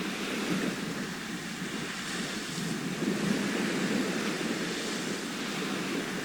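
Sea waves washing onto a shore, a continuous surf with a slow swell that grows about halfway through.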